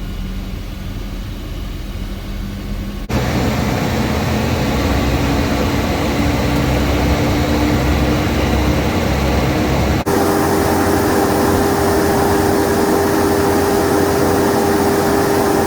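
Duramax diesel engine running at raised idle during a forced DPF regeneration: a steady drone with a held whine on top. The sound changes abruptly twice, and at the very end the whine begins to fall in pitch as the revs come down.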